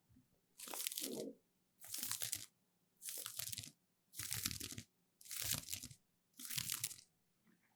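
Six even strokes of scratchy rubbing noise close to the microphone, about one a second, each lasting well over half a second: an ASMR "eardrum floss" trigger.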